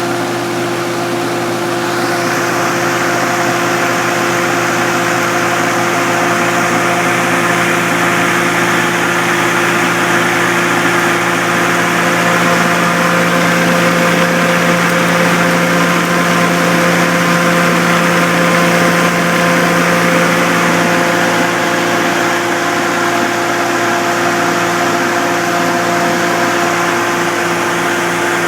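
Nissan 300ZX's 3.0 V6 engine running steadily at about idle with an engine knock, which appeared after a hard motorway run. The owner suspects the oil pump, as the oil pressure reads erratic.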